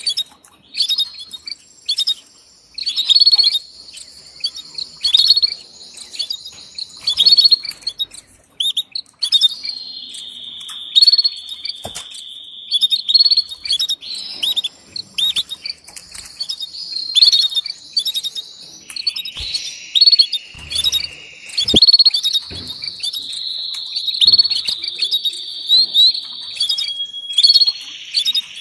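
Canaries calling: a female canary's mating call, a run of sharp, high chirps repeated many times, with longer rolling trills about ten seconds in and again just before twenty seconds.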